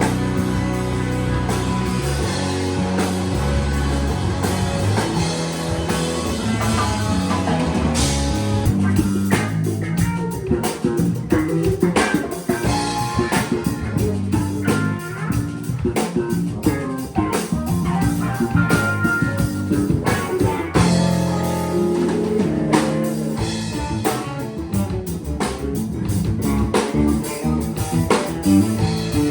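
Instrumental stretch of a live band playing blues-rock: guitar over a drum kit, the drum strokes getting sharper and busier from about nine seconds in.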